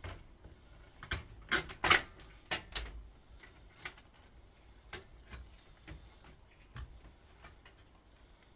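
Clicks and clatter of hand tools and small hard parts being handled while an induction hob is stripped. A quick cluster of sharp knocks comes between about one and three seconds in, followed by a few scattered clicks.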